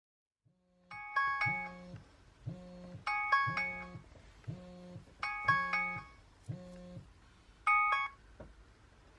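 A short electronic chime melody loops over and over. It has low notes about once a second and bright bell-like chimes over them about every two seconds, in the manner of a ringtone or alarm tone.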